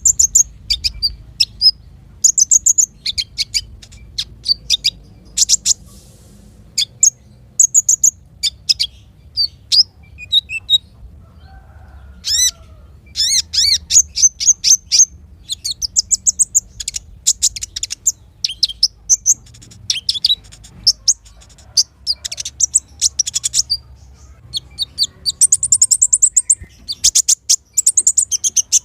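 Small songbirds singing in quick runs of sharp, high chirps and fast trills, with brief pauses between phrases and the densest runs about halfway through and near the end. This is 'masteran' song played for cage birds to copy. A faint low hum lies underneath.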